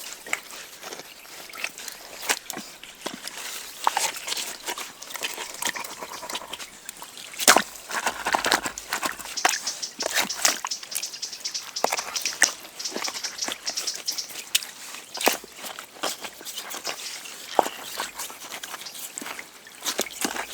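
Irregular sharp knocks and clicks of hand work with stone and wood, the strongest about seven seconds in, over faint sloshing water.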